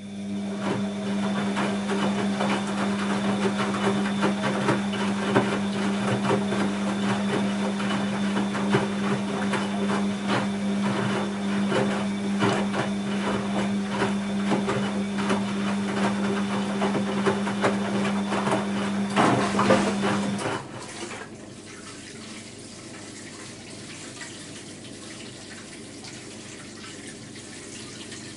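Bosch WAB28220 washing machine moving water: a steady electric hum with rushing, gurgling water. Both cut off about twenty seconds in, leaving a quieter wash of water.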